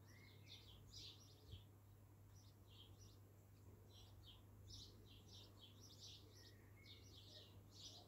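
Faint small birds chirping: quick clusters of short high chirps with a few lower whistled notes, over a steady low hum.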